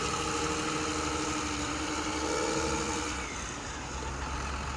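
An engine running steadily at a low, idling pace, easing slightly after about three seconds.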